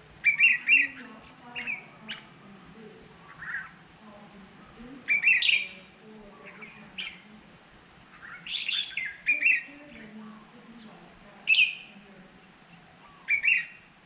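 Garden birds calling: clusters of short, sharp chirps come every two seconds or so, the loudest near the start, around the middle and near the end. Fainter, lower calls continue in between.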